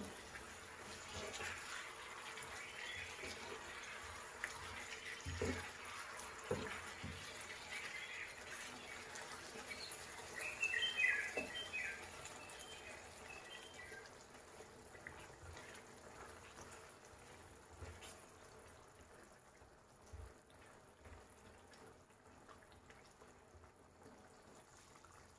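Faint kitchen sounds: a low watery hiss with a few utensil knocks, and bird chirps about ten seconds in. It grows quieter in the second half.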